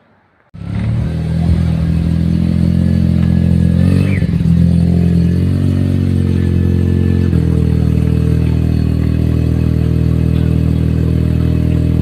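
A Mazda rotary engine comes in suddenly and runs at a loud idle. There is a short rev about four seconds in, and the note changes and settles into a steady idle about seven seconds in.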